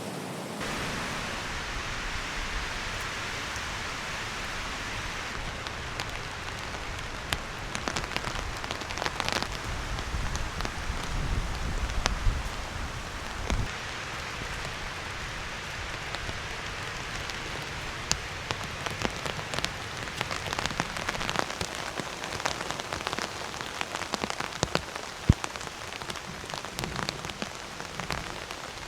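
Heavy rain falling steadily, with many sharp, separate drop hits on a nearby surface.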